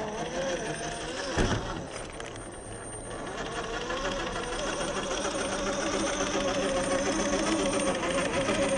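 RC crawler's 45-turn 540 brushed electric motor and gear drivetrain whining, the pitch wavering up and down with the throttle, then steadier and a little louder from about four seconds in. A single sharp knock about one and a half seconds in.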